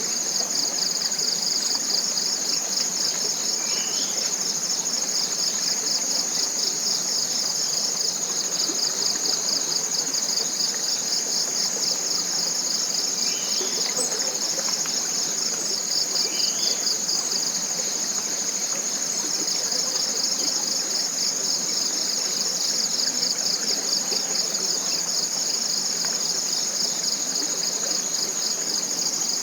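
Chorus of forest insects giving a steady, high, finely pulsing buzz, with a few faint short calls over it.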